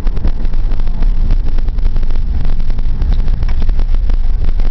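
Wind buffeting the microphone in a moving car: a loud rushing rumble that flutters constantly, over the vehicle's road noise.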